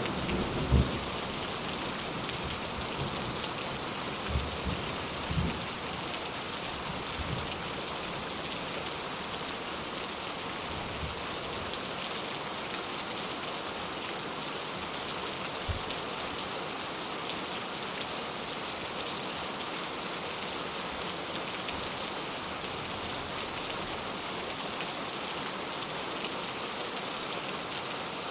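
Rain falling steadily, an even hiss. During the first several seconds a low thunder rumble dies away, and a few faint low thuds come later.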